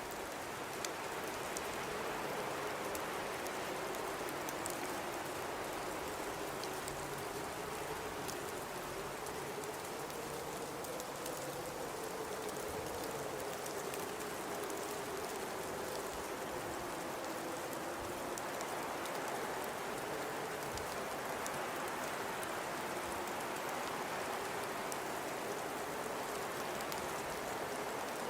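Blizzard wind blowing steadily, with a hollow howl that slowly wavers in pitch over a constant rushing hiss, and scattered faint ticks.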